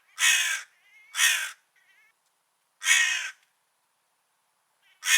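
Crow cawing: three harsh caws about a second or more apart, with a fourth starting near the end and fainter short calls between the first ones.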